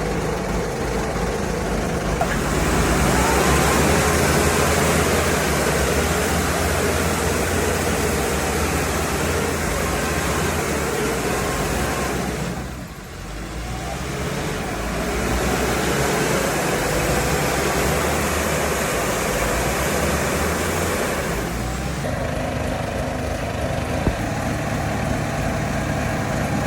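A vehicle engine running steadily, with a short drop in level about halfway through.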